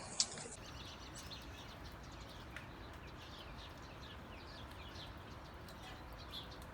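Small birds chirping faintly: many short, quick chirps that sweep downward in pitch, over a steady low background noise. A single sharp click comes just at the start.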